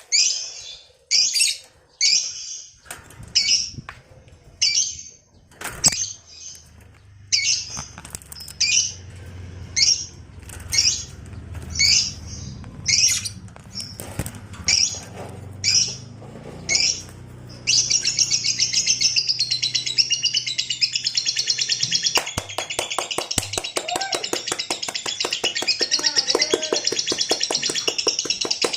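Lovebird calling: a run of short, sharp, high chirps about one a second, then, about 18 seconds in, breaking into a long unbroken rapid chatter, the 'ngekek' song.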